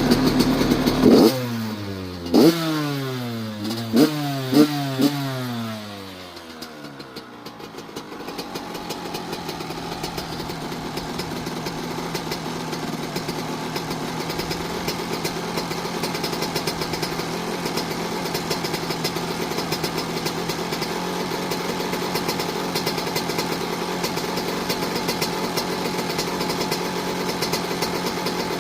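Yamaha YZ85's two-stroke single-cylinder engine blipped four times, the revs falling away after each, then settling into a steady idle.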